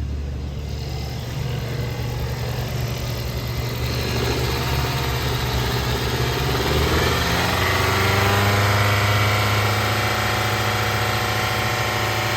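2016 Hyundai Sonata's 2.4-litre four-cylinder engine running at idle on a run test, its hum rising a little in pitch and loudness about seven seconds in.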